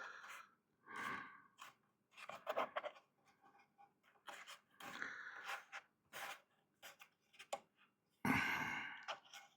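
Irregular rustling and scraping handling noises as a subwoofer driver's foam surround is pressed and lined up on the speaker by hand, with a louder, longer scrape about eight seconds in.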